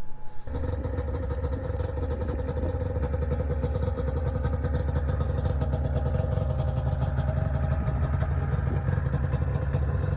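An engine running steadily with a low, rhythmic pulse, starting abruptly about half a second in.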